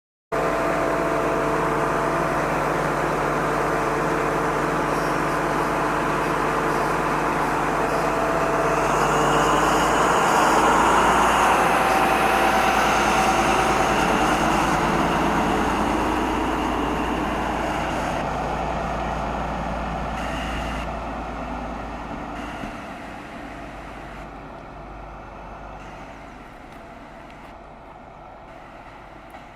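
Diesel engines of an InterCity 125 HST running, with a steady engine tone. The sound grows louder about ten seconds in, then fades away steadily over the second half.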